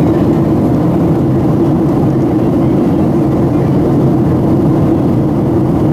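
Boeing 737-700 in flight heard from inside the cabin: a steady drone of its CFM56 jet engines and rushing air, with a constant low hum.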